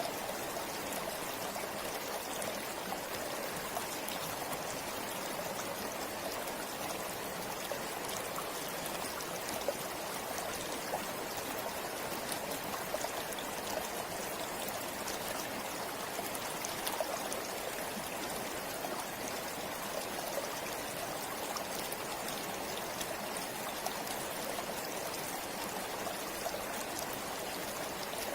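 River water flowing steadily over rocks: an even rushing with a bubbling trickle and small splashes through it.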